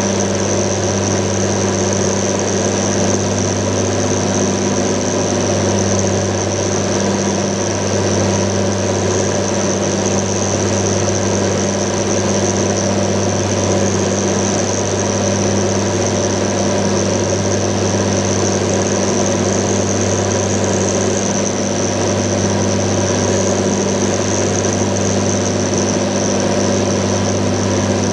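John Deere 7920 tractor's 8.1-litre six-cylinder diesel running at steady, constant revs, with a steady high whine above it.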